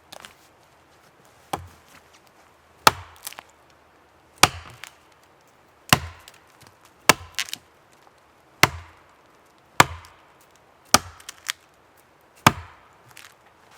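Wood being chopped, possibly firewood at camp: about ten sharp blows, roughly one every second and a half, some followed by a lighter knock.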